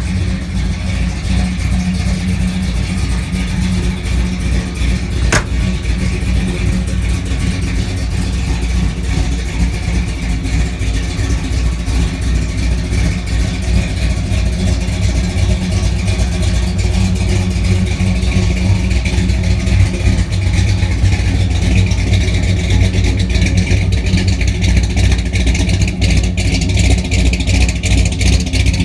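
A 1955 Chevrolet pickup's engine running steadily, with a strong low drone.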